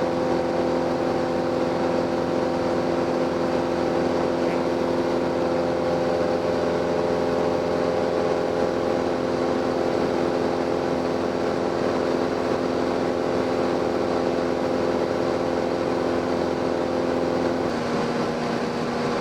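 Cessna 172M's four-cylinder Lycoming piston engine and propeller running steadily in flight, heard from the cabin. A little before the end the engine note shifts and the deepest part of the sound drops away.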